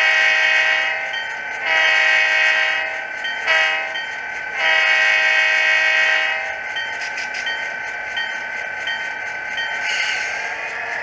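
Model diesel locomotive's Tsunami sound decoder playing a horn through two small sugar-cube speakers: two long blasts, a short one and a long one, the grade-crossing signal. A bell dings steadily underneath, over a steady tone.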